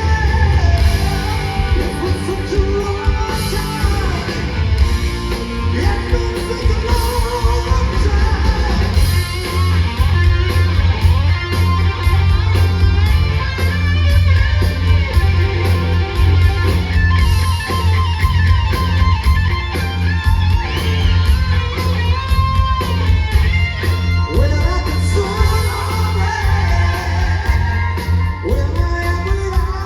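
Rock band playing live at full volume: electric guitars, bass and drums under a lead vocal.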